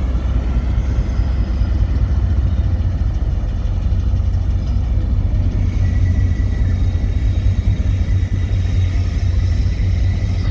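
A train running past with a steady low rumble, joined by a faint high whine about six seconds in.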